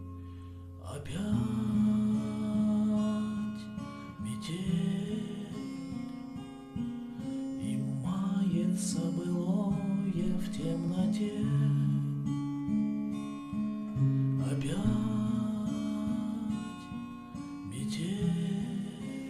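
Acoustic guitar strummed, ringing chords with a few strong strokes and a short run of picked notes in the middle.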